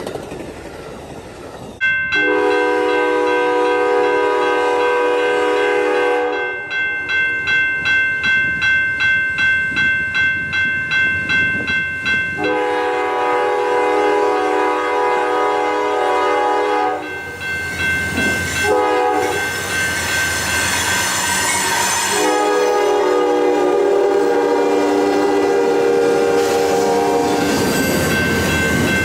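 Amtrak locomotive horn sounding the grade-crossing signal: two long blasts, a short one and a final long one. A bell rings rapidly between the first two blasts.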